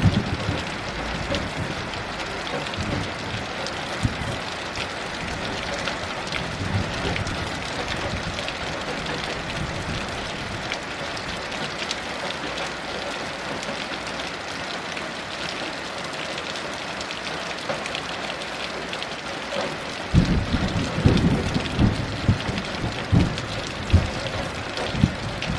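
Heavy rain falling steadily, with low rumbles of thunder. The thunder is faint early on and grows into a stronger, rolling rumble over the last few seconds.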